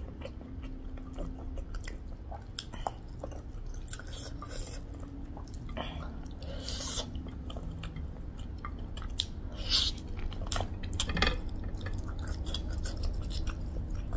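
Close-miked mukbang eating sounds: a person chewing a mouthful of rice and pork, with scattered wet smacks and small clicks, and fingers working the rice on the plate.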